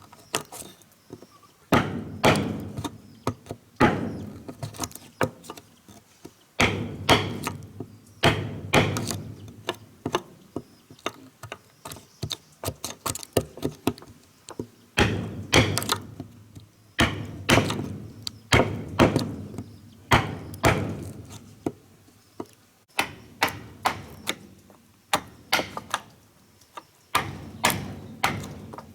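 Repeated blows of a tool striking wood, in runs of several strikes about two a second with short pauses between runs, as in chopping or hammering timber during building work.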